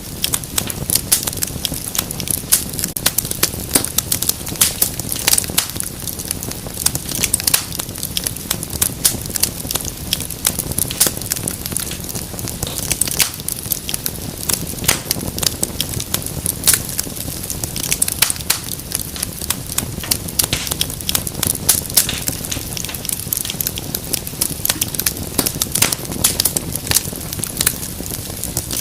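Wood fire in a fireplace crackling steadily, with dense, irregular sharp crackles over a low, even rumble.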